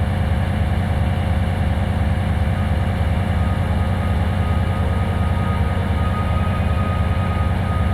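MÁV M41 diesel-hydraulic locomotive's diesel engine idling with a steady low rumble. A faint steady whine joins about two and a half seconds in.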